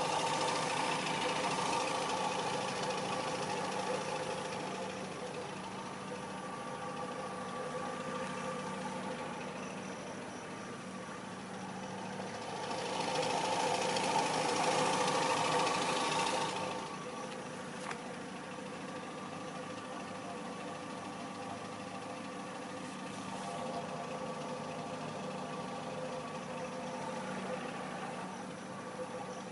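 1994 Nissan Altima 2.4 GLE's 2.4-litre four-cylinder engine running with the abnormal engine noise the owner is recording; the sound grows louder for a few seconds about halfway through, then settles back.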